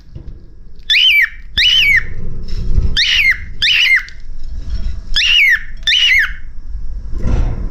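Cockatiel whistling a short two-note phrase three times over, each note a quick rise and fall in pitch, the pairs about two seconds apart.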